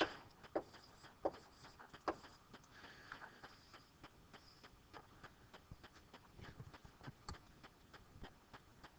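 Faint, irregular clicks of calculator keys being pressed as a multiplication is typed in.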